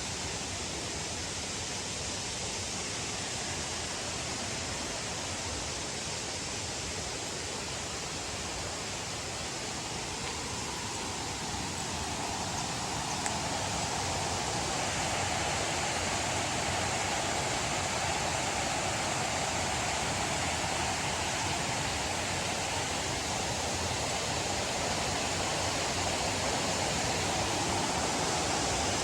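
Steady rush of falling water from a waterfall, a constant noise that grows somewhat louder about halfway through.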